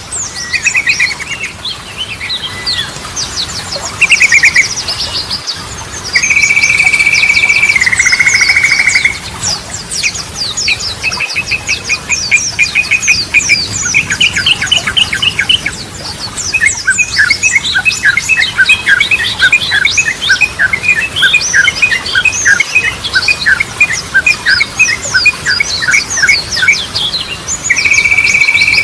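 Yellow-vented bulbul (trucukan) song: bubbly whistled phrases, including a held whistle that steps down in pitch, twice, and a long run of quick repeated notes, over constant high twittering.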